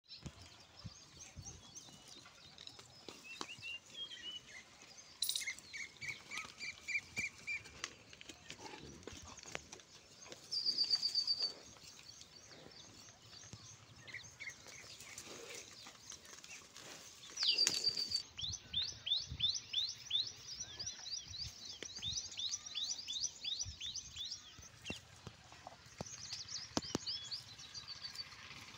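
Wild birds calling: scattered high chirps, a short trill, a loud buzzy call, and then a long run of quick rising whistled notes, about three a second, lasting several seconds past the middle.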